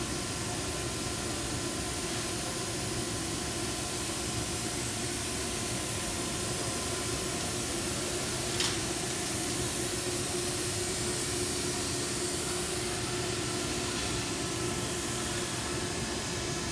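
Steady hiss and hum of running shop machinery, with a single sharp click about eight and a half seconds in.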